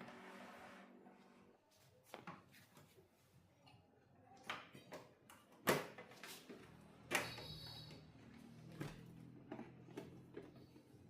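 Scattered sharp clicks and knocks of small tools and parts being handled on a workbench, a few seconds apart, after the last notes of test music fade out in the first second. A faint low hum sits under the second half.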